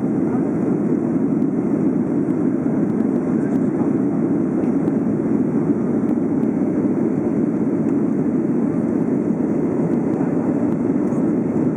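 Boeing 757-200 jet engines running at high power, a steady, even, deep rushing noise with no change in level.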